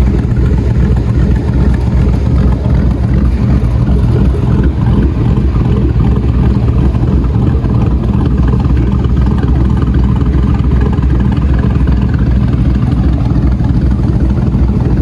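A 2013 Chevy Tahoe PPV's 5.3-litre V8 idling steadily, a low, even exhaust rumble.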